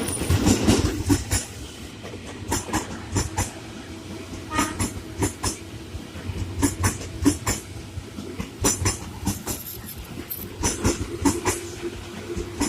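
A train passing, its wheels clacking over rail joints in repeated groups of quick knocks over a steady rumble.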